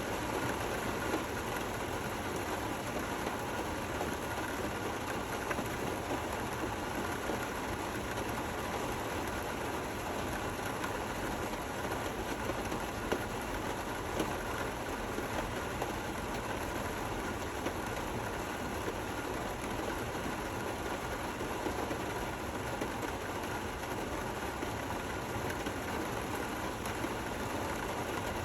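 Steady rain falling, an even hiss with scattered small drop ticks, no thunder.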